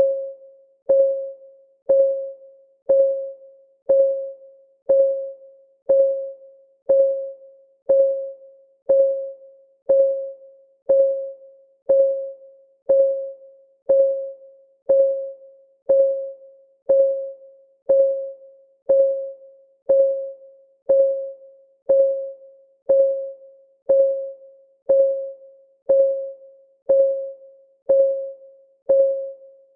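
Clock ticking steadily once a second, each tick a short pitched click that dies away quickly.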